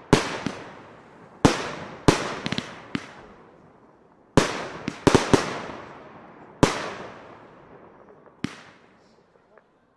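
Aerial firework shells bursting one after another, about ten sharp bangs in all, each trailing off in a long rolling echo, with a quick run of smaller pops about two and a half seconds in. The last few seconds are quieter, with only one more bang.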